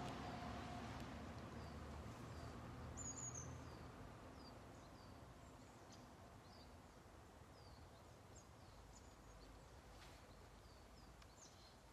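Near silence with faint outdoor ambience and many short, high bird chirps scattered through.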